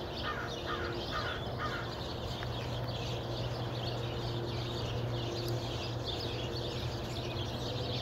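Many birds chirping and chattering continuously, with a few quick repeated calls in the first two seconds. A steady low hum runs underneath.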